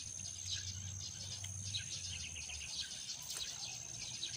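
Rural outdoor ambience: birds chirping repeatedly over a steady, high insect drone. A low hum underneath stops a little past halfway.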